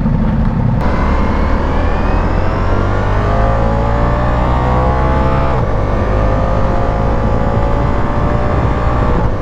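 2025 Ducati Diavel V4's 1158 cc V4 engine under hard acceleration, the revs climbing steadily. About five and a half seconds in the pitch drops suddenly at a quick-shifter upshift, then the revs climb again in the next gear.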